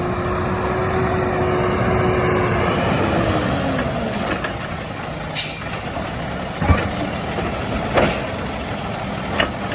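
Labrie Automizer automated side-loading garbage truck running. A steady whine slides down in pitch about three seconds in. Then come a brief hiss and several separate clanks and knocks.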